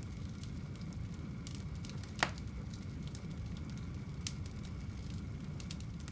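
Wood fire burning in a home fireplace: a steady low rumble of flames with scattered small crackles and one louder pop about two seconds in.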